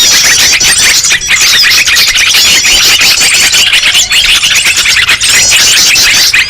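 Loud, dense chorus of many small songbirds chattering and trilling over one another, with rapid high chirps and no pause. It is a 'noisy birds' lure recording (suara burung ribut) used to draw wild birds in.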